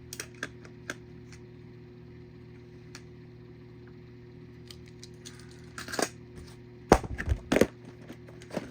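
Die-cast toy cars and their storage case being handled: scattered light clicks and clacks, with a louder run of knocks and clatters in the last third, over a low steady hum.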